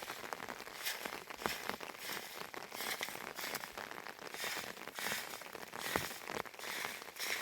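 Rain falling, with many small, sharp, irregular hits of drops over a steady hiss.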